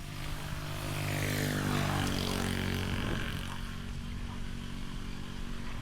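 A motor vehicle driving past on the road, its engine and tyre noise swelling to a peak about two seconds in and then fading away.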